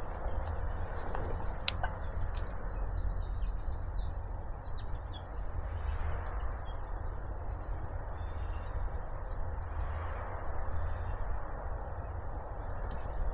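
Small birds calling in woodland, a few short high calls mostly in the first half, over a steady low background rumble.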